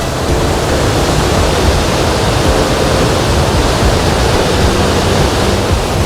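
A waterfall in full, rain-swollen flow, rushing loud and steady.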